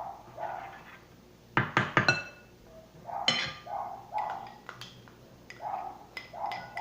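A metal spoon knocking and scraping against a bowl as ingredients are scooped in: a quick cluster of sharp ringing clinks about one and a half to two seconds in and another clink a little later, between short repeated scraping strokes.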